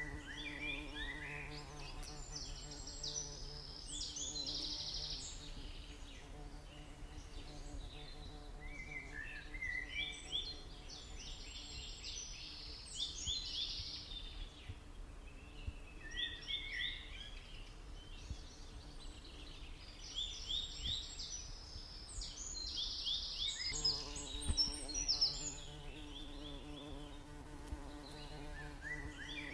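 Stingless bees humming steadily, the hum swelling near the start and again near the end. Over it, a bird sings bouts of quick chirping phrases every few seconds.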